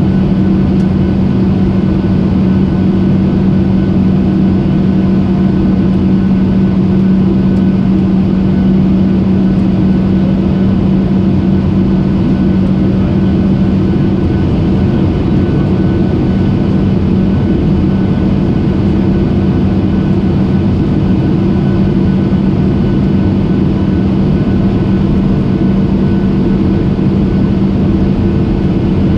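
Airliner cabin noise in flight: a loud, steady drone of engines and rushing air heard from inside the cabin. A strong low hum in it fades about halfway through.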